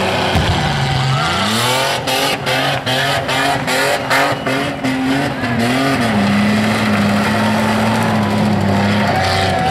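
Holden VN Commodore's 3.8-litre V6 revving hard during a burnout, its rear tyres spinning on the pad. The engine note rises about a second in and wavers, with a run of sharp cracks, then is held steady at high revs through the second half.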